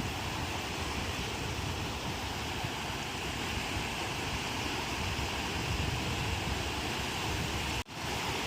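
Ocean waves breaking on the shore in a steady rush, with a low, uneven wind rumble on the microphone. The sound drops out for a split second near the end.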